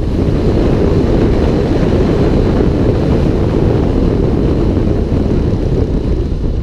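Steady, loud wind roar buffeting the microphone of a moving vehicle, with no clear engine note.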